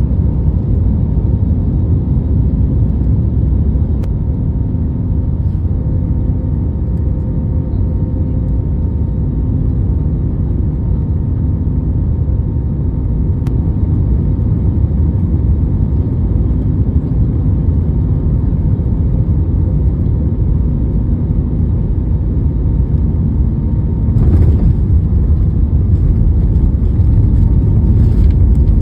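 Airliner cabin noise heard from a seat by the wing: a steady low rumble of the jet engines and airflow, with faint steady engine tones over it, on the way in to land. About 24 s in it grows a little louder and hissier.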